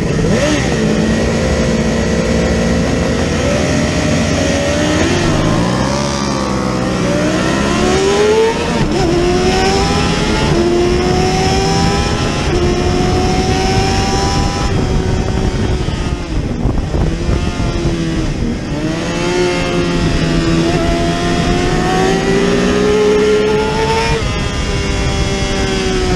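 Lightweight-class racing motorcycle engine at high revs. Its pitch climbs and falls repeatedly as it accelerates, shifts and backs off, with a sharp climb and sudden drop about eight seconds in, and a slower fall and recovery past the middle.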